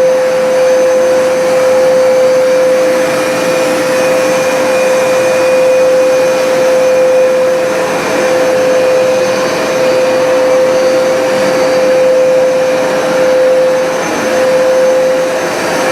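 Hoover SmartWash automatic carpet cleaner running while washing: its suction motor gives a loud, steady whine over a rush of air, rising and falling slightly in level.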